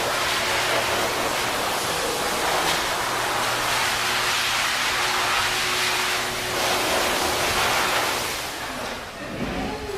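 Pet-grooming blow dryer running, a steady rushing blast of air with a faint motor hum, drying a dog's wet coat after her bath; it eases off near the end.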